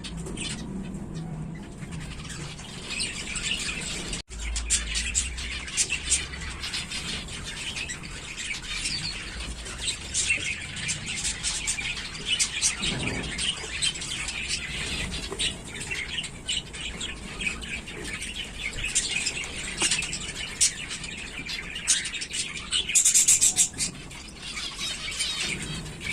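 Zebra finches chirping, many short calls overlapping continuously, with a louder brief burst of calls near the end.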